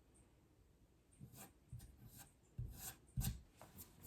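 Faint, short scrapes and light knocks of a putty knife pressing wood filler into small holes in wood, about eight strokes with the firmest near the end.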